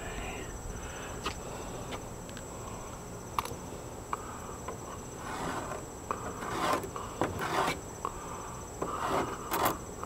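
Short bursts of wood scraping and rubbing with a few sharp clicks, mostly in the second half, over a steady faint high insect trill. No power sander is running.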